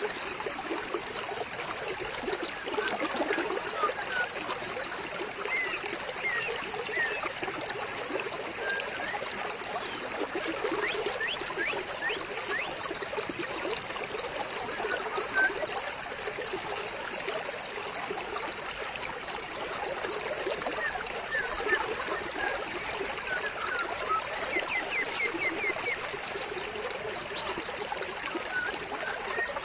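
Shallow stream trickling and babbling steadily over stones.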